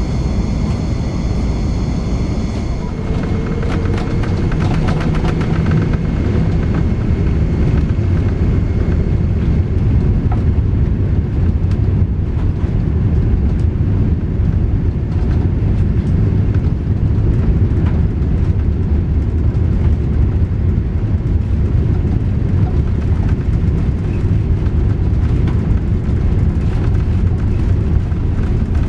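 Airbus A380 airliner heard from inside the passenger cabin: a steady, loud low rumble of engines and airflow, growing slightly louder over the stretch.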